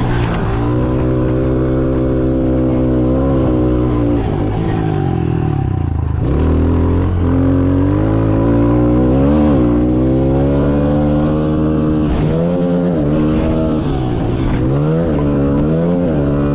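Pit bike's single-cylinder four-stroke engine revving hard while racing, the pitch dropping and climbing again several times as the throttle is rolled off and back on.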